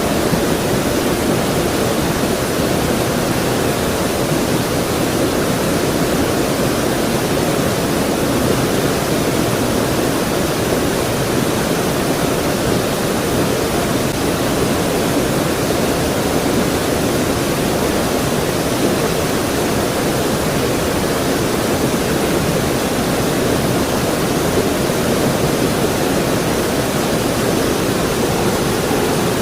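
Stream water rushing and splashing over rocks, a steady, unbroken full sound.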